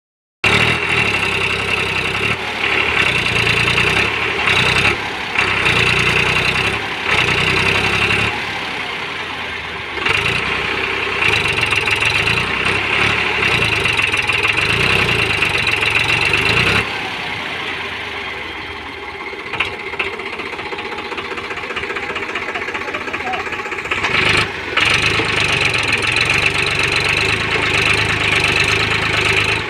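Tractor engine running, with a knocking note, its low throb dropping back about halfway through and picking up again later.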